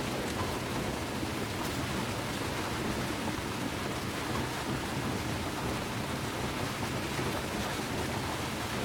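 Steady, even hiss of water, with no change in level.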